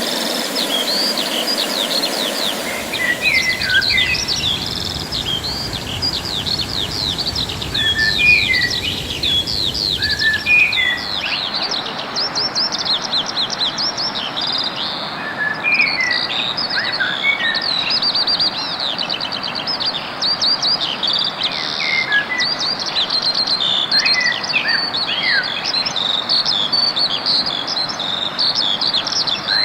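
Several songbirds singing together: a dense chorus of short, quick chirps and trills overlapping without a break. The background hiss and low rumble change abruptly about a third of the way in.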